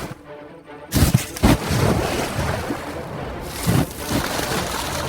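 Water splashing and churning, with a few heavy thuds, as lionesses and a buffalo bull struggle in shallow swamp water; it starts suddenly about a second in after a quieter moment.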